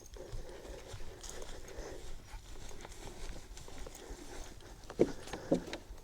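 Footsteps with small irregular knocks, and two louder thuds about five seconds in, half a second apart.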